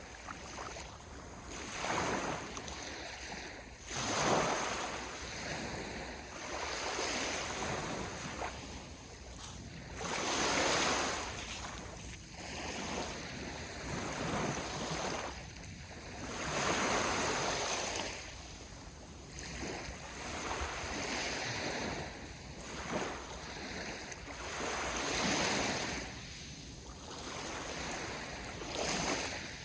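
Sea waves washing onto the shore, a fresh surge of hissing surf swelling and falling away every two to three seconds, with some wind on the microphone.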